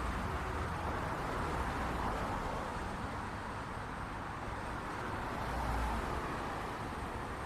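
City street traffic ambience: a steady wash of passing cars and tyre noise with a low engine rumble that swells a little past the middle.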